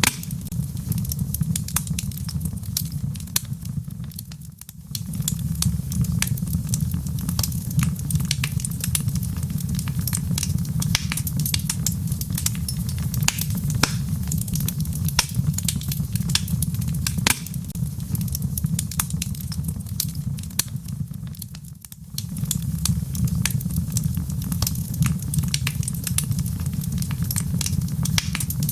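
Logs burning in a fireplace, crackling and popping densely over a steady low rumble of the fire. The rumble drops away briefly twice, about four seconds in and again about twenty-two seconds in.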